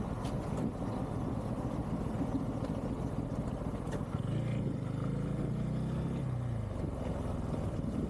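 Motorcycle running on the road, its Bajaj Pulsar N250 single-cylinder engine under a steady low rumble of engine and wind noise, with a clearer engine note coming up from about four to seven seconds in.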